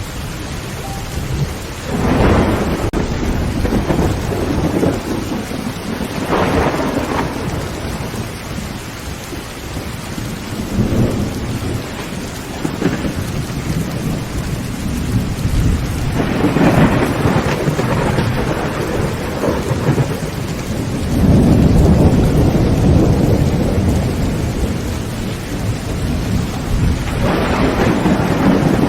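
Heavy rain drumming on a tin roof with repeated rolls of thunder over it, about six in all, the longest and deepest rumble a little past the middle.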